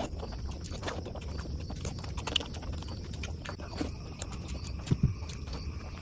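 Close-miked wet chewing and lip-smacking of a person eating rice and mutton curry by hand: irregular soft clicks and smacks, with two sharper ones about five seconds in, over a low steady hum.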